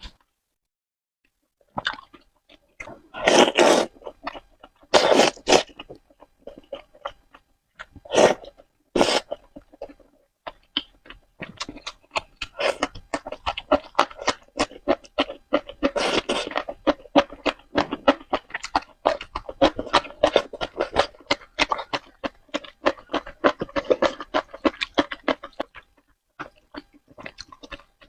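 Close-miked eating of spicy noodles: a few loud, short slurps in the first ten seconds, then steady wet chewing with rapid smacking mouth clicks that stops near the end.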